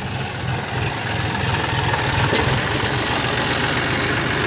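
Large diesel engine of a heavy farm or construction machine running steadily, growing a little louder toward the end.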